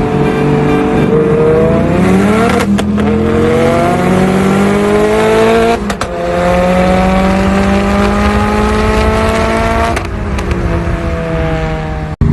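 A car engine pulling hard at full throttle through the gears, rising steadily in pitch and dropping at each quick upshift, three shifts a few seconds apart. It cuts off sharply near the end.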